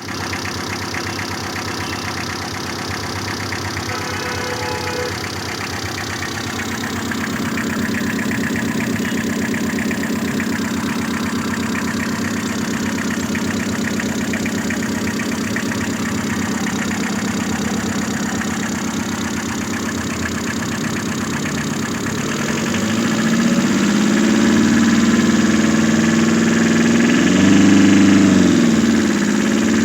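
A vehicle engine idling steadily. It gets somewhat louder and fuller about a quarter of the way in, and louder again in the last third, with the pitch wavering briefly near the end.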